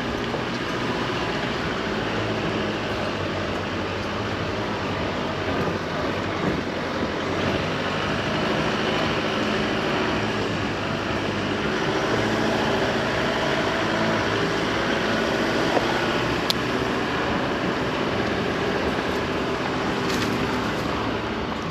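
Chevy Colorado ZR2 Bison pickup driving on a trail: steady engine and tyre noise with a few light clicks and rattles.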